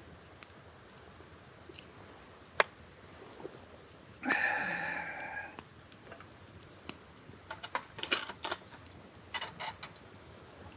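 Clinks of glass or metal kitchenware: a single sharp tap, then one clink that rings for about a second, then two short bursts of rattling clicks near the end.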